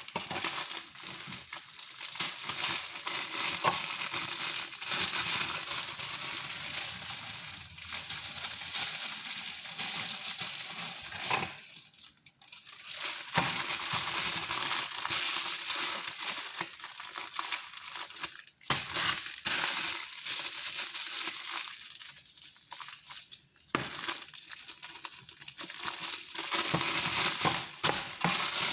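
Continuous crinkling, crunching noise that drops out briefly three times.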